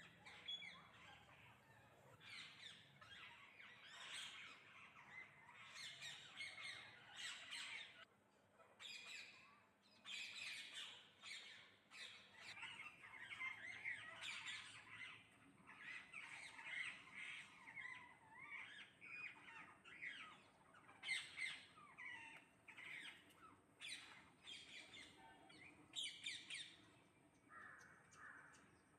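A flock of parrots calling noisily while feeding: many short squawks overlapping, with brief lulls.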